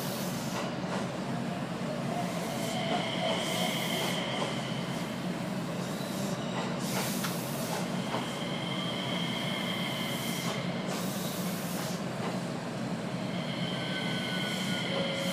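A JR West 227 series 'Red Wing' electric train moving slowly past on the next track, heard from inside a standing train: its wheels squeal in three spells, with scattered clacks, over a steady low hum.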